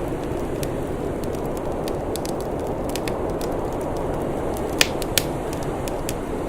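Wood fire crackling, scattered small snaps with two sharper pops about five seconds in, over a steady rushing noise.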